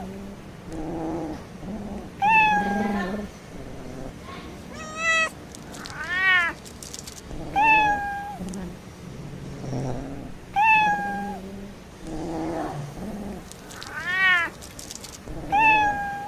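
Cats meowing repeatedly: about seven loud meows a second or two apart, some falling in pitch and some rising then falling, with quieter, lower calls in between.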